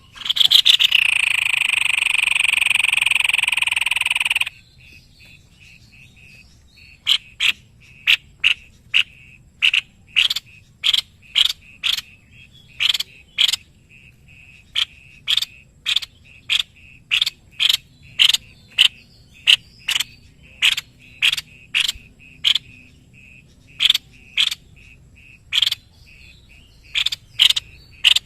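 Animal calls: a loud, steady buzzing call lasting about four seconds, then after a pause a long series of short, sharp calls about two a second, over a faint steady high drone.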